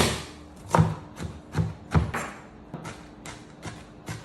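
A sharp bang, then a run of about ten irregular knocks and thumps, the loudest about one and two seconds in.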